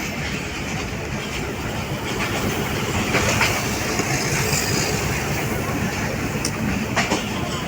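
Pakistan Express passenger train running on the rails: a steady rumble with a few sharp knocks of the wheels and coaches.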